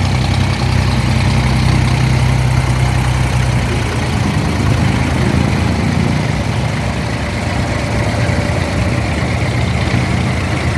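Abra water taxi's diesel engine running steadily under the passengers; about four seconds in its note drops and eases, then carries on at a lower, steady run.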